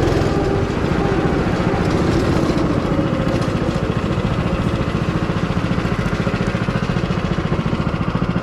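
Go-kart's small petrol engine running steadily under way, a fast, even engine beat.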